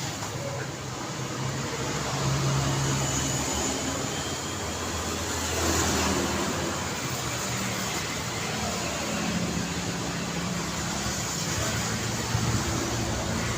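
Road traffic: cars and motorbikes running past, with a steady engine hum and one vehicle passing louder about six seconds in.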